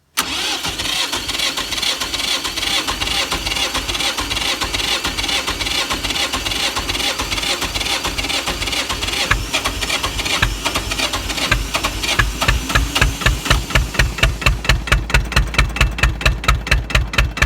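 Tractor engine being cold-started: a steady cranking whir starts suddenly, and after about twelve seconds a regular chugging of about four beats a second comes in and grows stronger.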